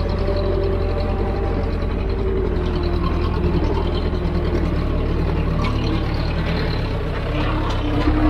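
Heavy diesel machine engine running steadily, a continuous low rumble with faint wavering tones above it.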